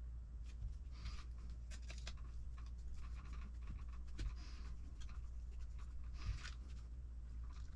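Small parts and tools being handled on a workbench during kit assembly: light clicks and short scratching rustles, over a steady low hum.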